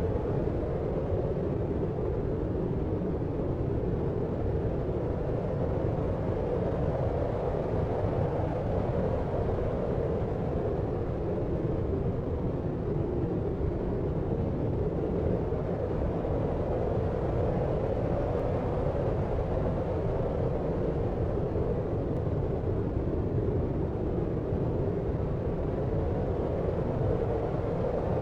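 Deep, steady white noise, low-pitched with little treble, swelling and easing slowly.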